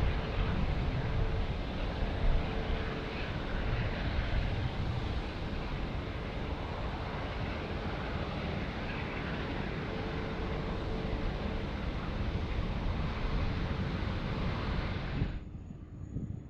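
Jet airliner engines: a steady rushing noise with a faint held tone underneath, which stops abruptly near the end.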